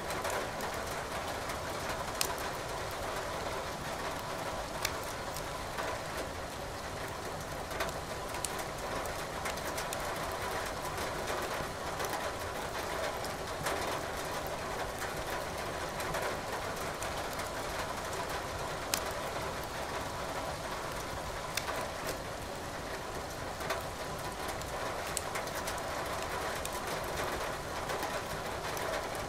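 Steady hiss of rain with burning firewood crackling in a fireplace: sharp pops every few seconds over the even wash of rain.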